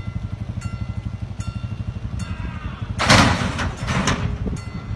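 A vehicle engine running with a steady low throb. About three seconds in, a loud rushing, hissing noise lasts about a second.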